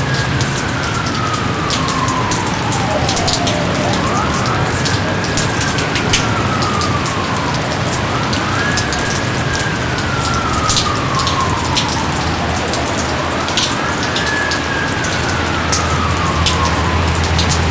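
Steady heavy rain, dense and hissing, with many distinct drops spattering. Through it runs a repeating tone that swoops up quickly and then glides slowly down, about every four seconds.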